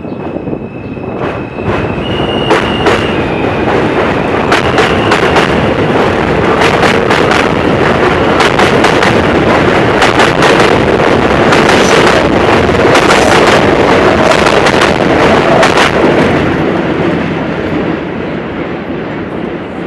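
New York City Subway L train running by close at track level, a loud steady rumble with many sharp clacks of the wheels over rail joints. A high thin tone sounds in the first few seconds, and the noise fades near the end as the train moves off.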